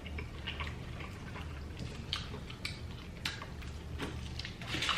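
Eating sounds from chicken wings being chewed and pulled apart by hand: scattered soft, wet smacks and clicks over a low steady hum.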